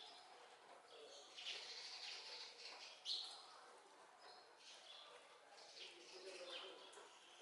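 Small birds chirping faintly in short scattered calls, the loudest a sharp chirp about three seconds in.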